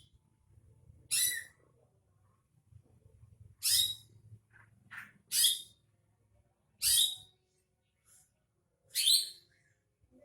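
Cucak hijau (green leafbird) calling: short, bright calls repeated about every one and a half to two seconds, with a few fainter notes between them.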